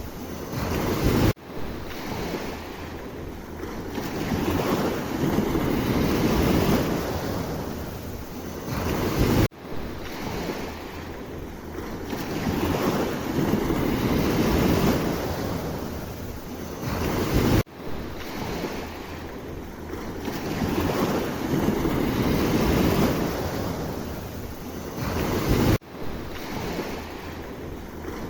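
Sea waves washing in and pulling back in slow swells, with wind buffeting the microphone. The sound cuts off abruptly and starts again about every eight seconds.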